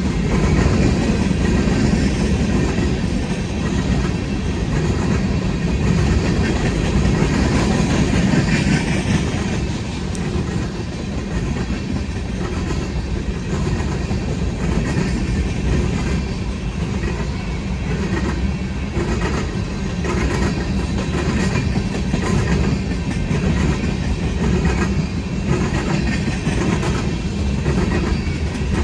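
Freight train cars rolling past: a steady rumble of wheels on rail, with a run of clickety-clack as the wheels cross rail joints in the second half.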